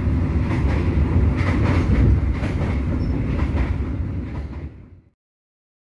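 Steady rumble and clatter of a moving passenger train, heard from inside the carriage. It fades out to silence about five seconds in.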